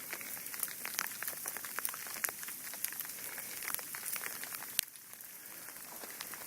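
Sleet ticking on ice-coated surfaces: many small, irregular ticks over a steady hiss. A sharper click comes about five seconds in, and the ticking thins a little after it.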